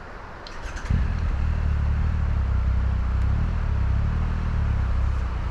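A motorcycle engine starts about a second in and then runs steadily at a low pitch, without revving.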